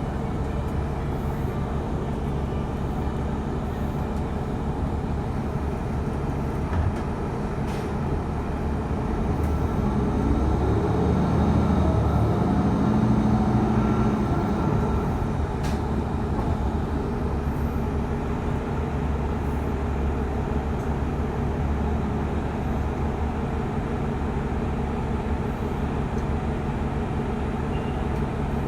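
Steady drone of a transit vehicle heard from inside while riding. About 9 seconds in, a rising pitch and a swell in loudness mark it speeding up. It is loudest a few seconds later, then settles back to a steady run.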